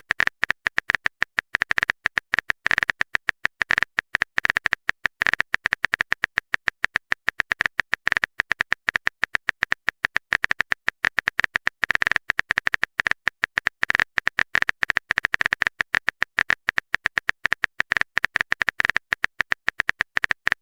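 A typing sound effect of chat text appearing: a rapid, uneven run of short ticks, several a second, each with a high tone.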